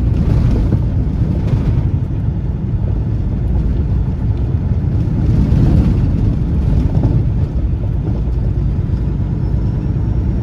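Peterbilt semi truck driving down the road, its engine and road noise a steady, loud low rumble.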